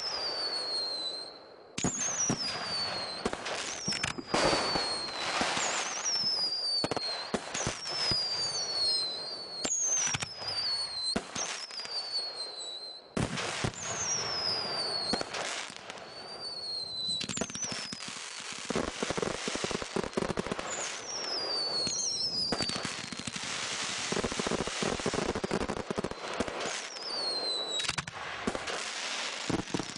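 Aerial fireworks going off in quick succession: sharp bangs and a string of whistles that fall in pitch, about one a second. In the second half the bangs give way to dense crackling.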